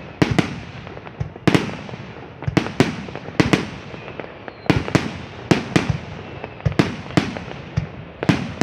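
Fireworks shells bursting in an uneven barrage, about two sharp bangs a second, each trailing off in an echo.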